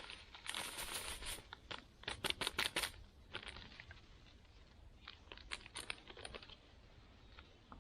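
The bag of dehydrated spread mix being handled and opened: crinkling and rustling. The loudest part is a cluster of quick crackles about two to three seconds in, followed by lighter ticks and rustles.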